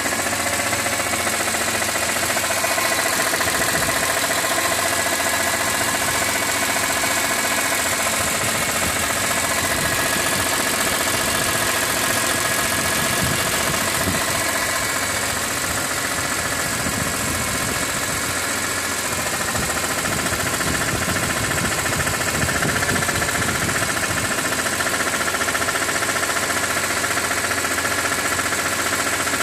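BMW E46 M3's S54 straight-six engine running steadily with the abnormal mechanical noise that appears once the oil is above 80 °C; the owner wonders whether it comes from the oil pump.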